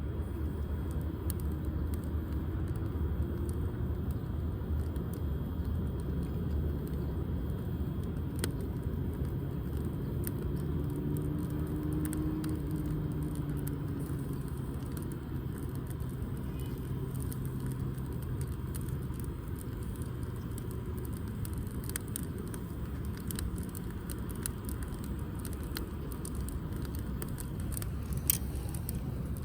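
Wood fire burning with scattered small crackles and pops, over a steady low rumble; a faint hum swells and fades in the middle.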